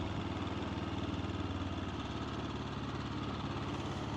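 AJP PR7's single-cylinder four-stroke engine idling steadily with a fast, even pulse.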